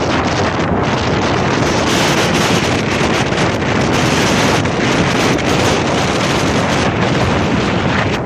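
Strong wind blowing hard across the microphone: a loud, steady rush of wind noise that swells and eases slightly without letting up.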